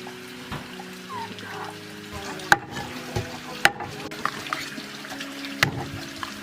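Kitchen work sounds: a few sharp clacks of a utensil, three of them loud, over a light background of stirring. Soft background music with held notes runs underneath.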